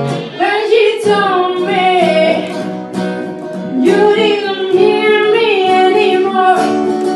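A woman singing a melody while strumming an acoustic guitar. The voice comes in just after the start over steady strums, with a short breath between two phrases about halfway through.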